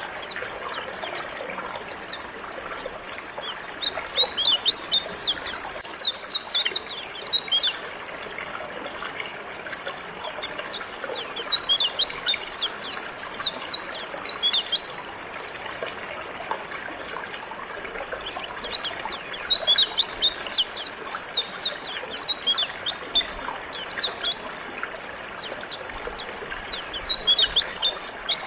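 White-eye (pleci) twittering in bursts of rapid high chirps that come back every seven or eight seconds, over the steady trickling of a river.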